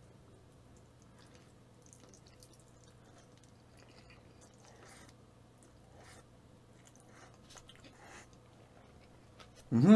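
Faint chewing and wet mouth sounds of a man eating black-bean-sauce noodles, with scattered small clicks. Near the end, a loud, short wordless vocal sound from him, rising and then falling in pitch.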